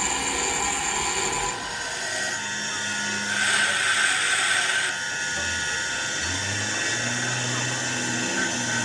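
A power tool running with a steady whine, with a louder, harsher stretch lasting about a second and a half near the middle.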